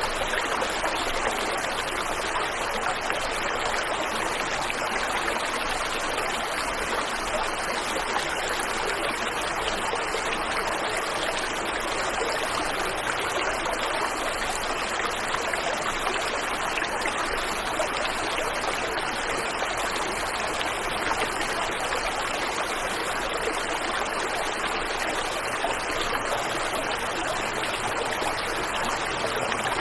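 Waterfall and river water rushing in a steady, even flow, with no breaks or changes.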